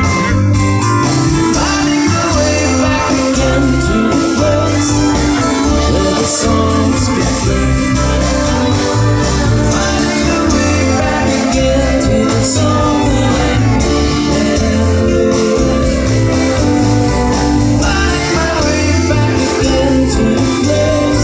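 Live string band playing loud, with a steady pulsing bass beat, plucked strings and singing.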